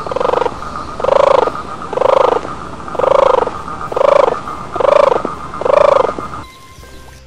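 An animal call repeated seven times, about once a second, each call short and rounded, rising then falling in pitch, over a steady high hum. The sequence stops abruptly near the end.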